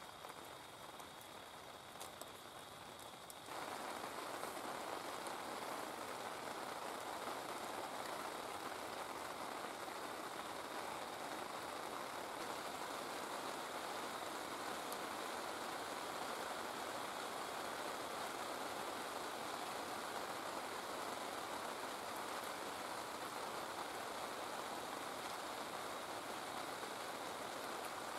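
Steady heavy rain, which gets suddenly louder about three and a half seconds in and keeps up evenly after that.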